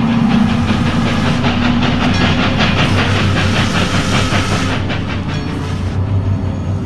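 A train passing close by: a loud rushing rumble with a rapid, regular clatter of wheels over the rails, strongest in the middle and easing near the end, over a steady low hum.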